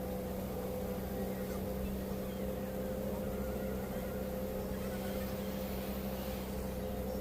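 An engine running steadily at constant speed, a continuous drone that holds one pitch throughout.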